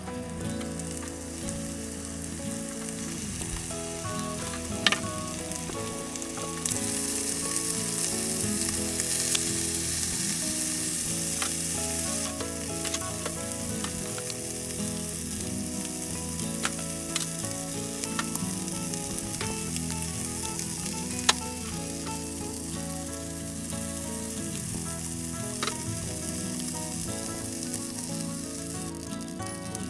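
Chicken pieces sizzling as they fry in olive oil in a frying pan, with a few sharp clicks. The sizzle grows louder for several seconds about a quarter of the way in, then settles back.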